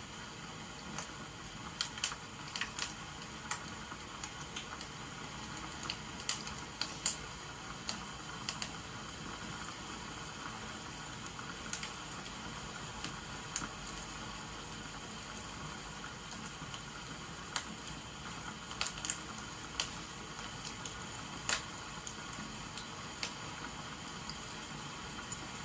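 Crackling wood fire with a steady rain-like hiss, broken by scattered sharp pops at irregular intervals.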